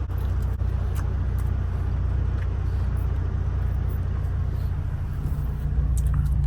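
Semi truck's diesel engine idling steadily, a low hum heard from inside the cab, with a few faint clicks over it.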